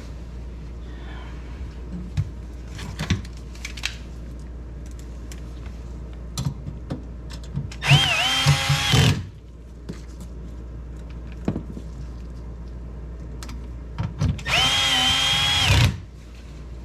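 Power drill/driver run in two short bursts, each spinning up to a steady whine and winding down, while the new refrigerator water valve is being fitted. Between the bursts come light clicks and knocks of parts being handled.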